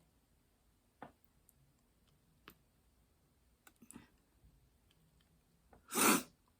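A few small, sharp plastic clicks and taps from diamond painting drills and their containers being handled, then a brief louder rattle near the end.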